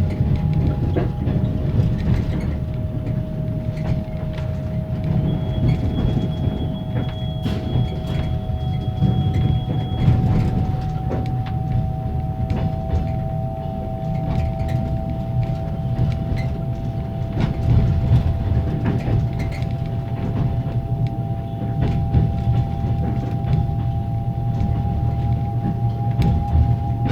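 Passenger carriage's axle-driven generator whining as two steady tones that slowly rise in pitch as the train gathers speed, over the rumble and clatter of the wheels on the rails, heard inside a closed sleeping-car compartment.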